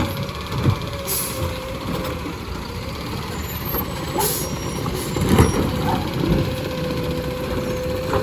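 Side-loader garbage truck running, with a steady whine over the engine rumble, two short hisses of air about one and four seconds in, and a louder knock a little past the middle.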